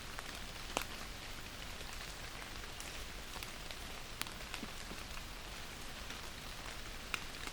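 Steady rain falling, an even hiss with scattered sharper drop hits, the clearest a little under a second in, about four seconds in, and near the end.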